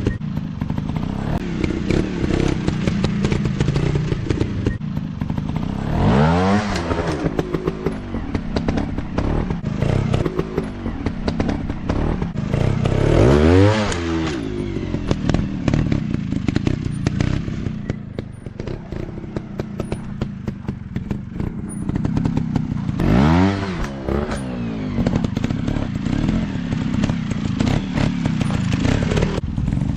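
Off-road dirt bike engines running, revved hard three times, about six, thirteen and twenty-three seconds in, each rev rising quickly in pitch and then falling back.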